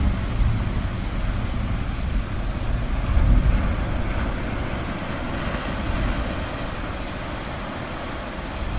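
Distant thunder rumbling low, loudest about three seconds in and then slowly dying away, over the steady wash of ocean surf.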